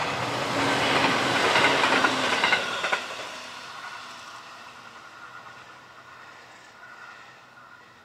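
HB-E300 series diesel-hybrid railcar passing at speed: loud wheel-and-rail noise for the first three seconds, with a few clicks over rail joints as the last car goes by. The sound then fades steadily as the train recedes into the distance.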